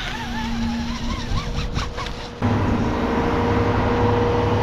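An engine running steadily at idle, with an even hum, jumping abruptly louder about halfway through.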